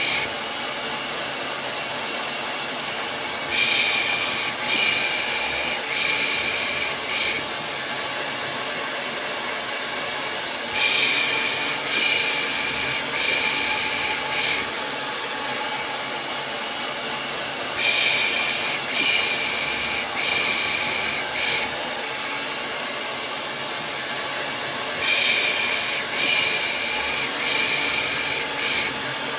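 Hair dryer running with a steady whooshing hum, with a person's rhythmic shushing ('pış pış') laid over it in groups of about four hushes, each group returning roughly every seven seconds. It is played as white noise to soothe a baby to sleep.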